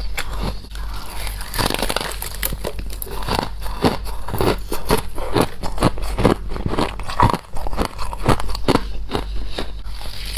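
Close-up biting and chewing of crunchy humidifier frost: a dense, irregular run of sharp crunches, several a second.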